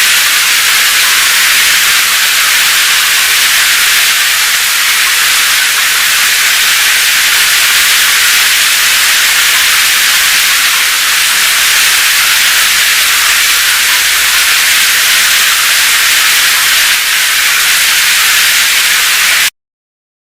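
Heavy rain as a dense, steady hiss with little low rumble, cutting off suddenly near the end.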